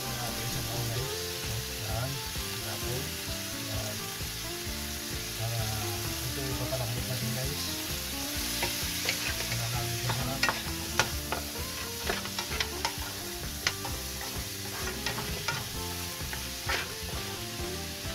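Goat meat and tomatoes sizzling as they sauté in a nonstick pan, stirred with a wooden spoon. From about halfway through, the spoon knocks and scrapes against the pan in a run of sharp clicks.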